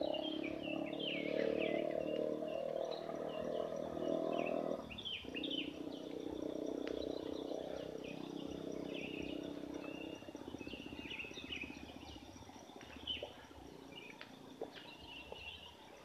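Small birds chirping: short high calls over and over. A low steady drone runs underneath, dropping away about five seconds in and fading out by about ten seconds.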